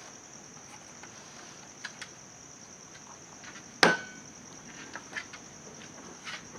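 A single sharp knock about four seconds in, among a few light scattered clicks, over a steady high-pitched hum.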